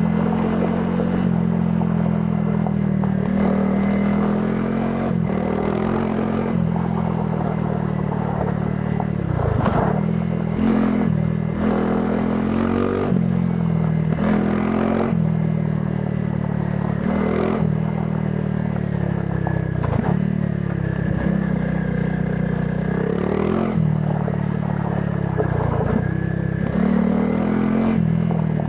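Honda CRF300 Rally's single-cylinder four-stroke engine through its stock exhaust, ridden off-road: the engine note rises and falls with the throttle, dropping briefly several times as the rider lets off, with occasional knocks over the rough ground.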